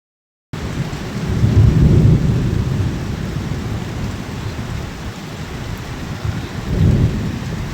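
Heavy rain falling steadily, with two low rumbles of thunder: a long one from about one and a half to two and a half seconds in, and a shorter one near the end.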